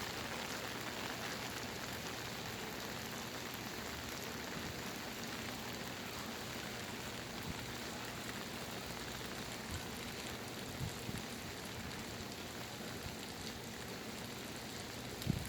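Steady monsoon-season rain pouring down: an even hiss of rain falling on surfaces. A couple of soft, low thumps come through, one about eleven seconds in and one near the end.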